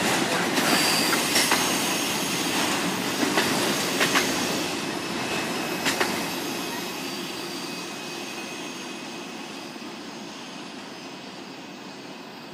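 Loaded autorack freight cars rolling past at speed: a steady rumble of wheels on rail with sharp clicks in the first six seconds and a thin high wheel squeal. The sound fades steadily as the end of the train pulls away.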